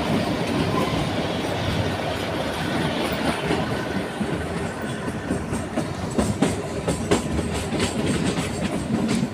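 Narrow-gauge Kalka–Shimla toy train running: the steady rumble and rattle of the moving coach, with a few sharp clicks of the wheels over rail joints from about the middle on.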